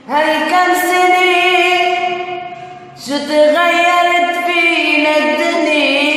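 Solo singing voice holding two long, drawn-out sung phrases in an Arabic vocal style, one at the opening and the next about three seconds in.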